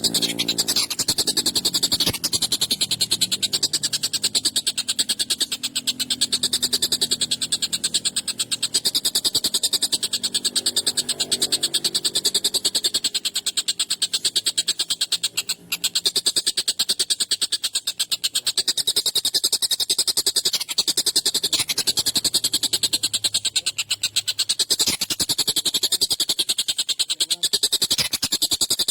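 Collared kingfisher (tengkek buto) calling on and on: a fast, harsh chatter of rapidly repeated notes, with a brief break about halfway through.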